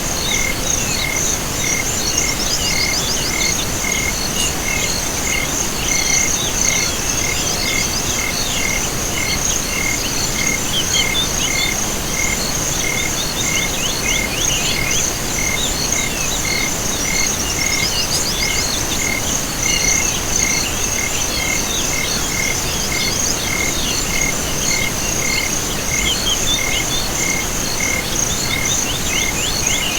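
Night chorus of insects and frogs: a continuous high-pitched insect trill, a single chirp repeating steadily somewhat less than twice a second, and scattered quick frog trills over a soft hiss.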